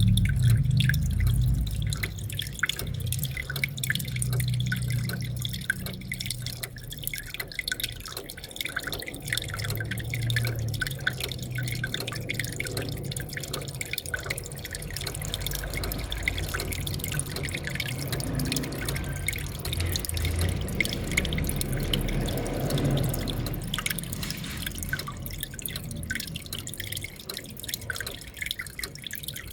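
Aquarium waterfall: water dripping and splashing in quick, irregular drops over a low rumble, a little louder in the first couple of seconds.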